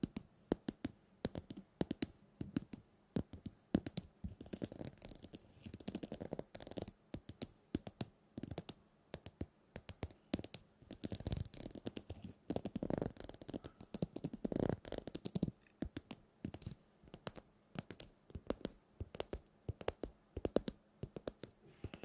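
Close-up tapping and scratching by hands on a small object: quick, irregular clicks and light taps, with a few softer rustling swells around the middle.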